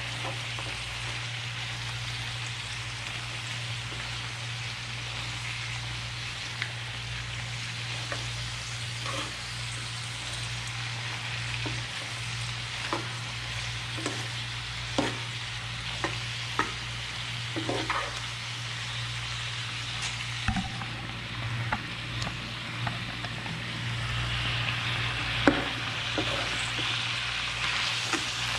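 Chicken, cabbage, carrots and potatoes sizzling in a frying pan as they are stirred, with the spoon clacking against the pan again and again. The sizzle grows louder near the end, over a steady low hum.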